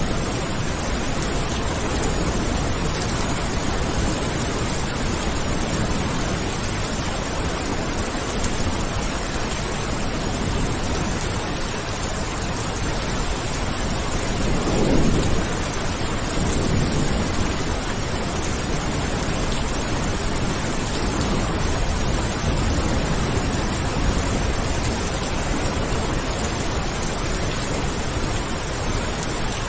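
Steady heavy rain making an even hiss, with a short low rumble of thunder about halfway through.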